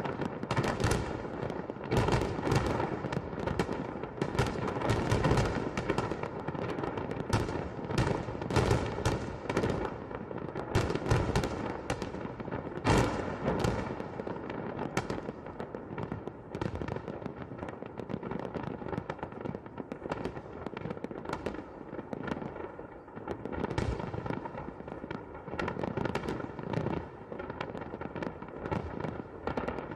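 Fireworks salute: a dense, continuous barrage of sharp bangs in quick succession, louder and more tightly packed in the first half.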